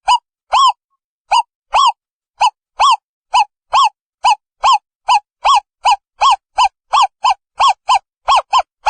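Owl calling: a long series of short, arched hoots with clean silence between them, speeding up from about two to about three a second, with some notes coming in close pairs near the end.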